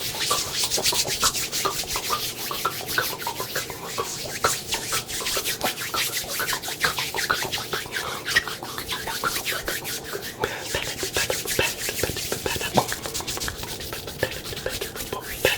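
Brush bristles scraping rapidly over a microphone, many scratchy strokes a second in a steady run.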